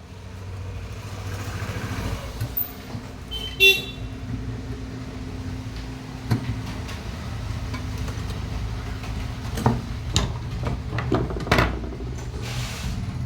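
Road traffic: a vehicle engine running steadily, with a short horn toot a few seconds in. Several sharp clicks and knocks later on, from hands and tools working on the rice cooker.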